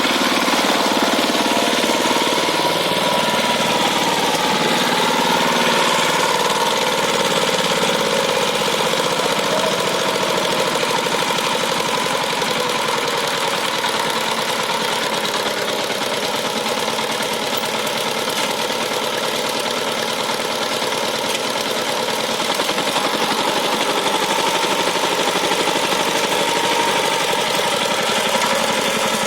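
Mini diesel power tiller engine running steadily with a knocking diesel chug.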